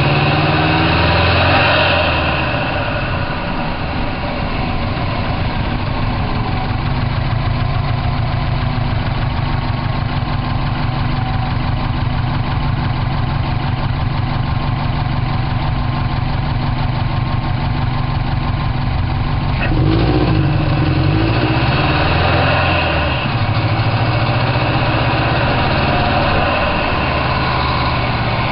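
Turbocharged 2.0-litre flat-four of a 2005 Subaru WRX, heard from inside the engine bay, idling steadily. Near the start and again about two-thirds of the way through, the engine speed briefly climbs and drops; the second rise is preceded by a sharp click.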